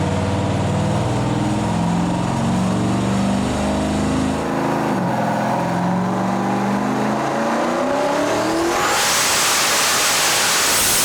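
Turbocharged LS V8 of a 2002 Pontiac Trans Am running on a chassis dyno, its revs climbing steadily through the middle of the stretch and giving way near the end to a loud, even rushing noise. The crew says afterwards that the engine is leaning out a little on this pull.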